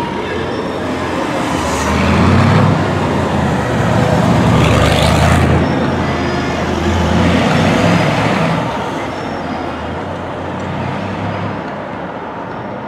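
Chevrolet Corvette C3's V8 engine driving away through street traffic. It swells loudest about two seconds in, again around five and eight seconds, then fades, with other traffic running underneath.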